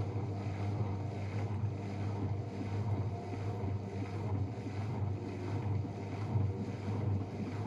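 AEG Protex Plus L87484AFL front-loading washing machine in its final spin, the drum turning at a steady speed with a constant low hum over a whooshing rush. It runs on a newly fitted drum unit that replaced one with failed bearings.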